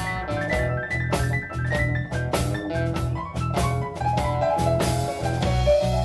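Blues band playing an instrumental break: drums keep a steady beat under a moving lead melody.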